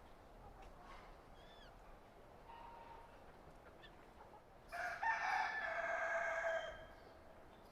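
A rooster crowing once, a loud call of about two seconds starting near the middle, with a few faint high chirps before it.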